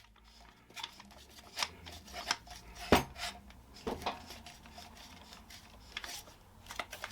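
Scattered clicks and knocks from handling a DEWALT cordless SDS Plus rotary hammer, with the sharpest knock about three seconds in. The motor is not running.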